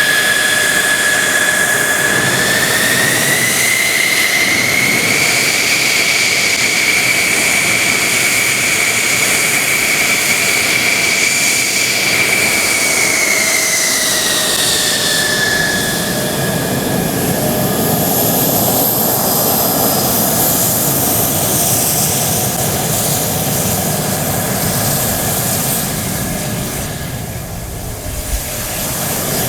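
A Mitsubishi F-2B fighter's single turbofan engine running loud and steady. Its whine rises in pitch a few seconds in, holds, then falls back about fifteen seconds in, and a high thin whistle joins about halfway through.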